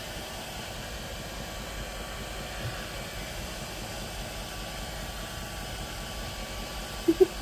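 Hair dryer blowing steadily on a cat's fur, with two short pitched sounds near the end.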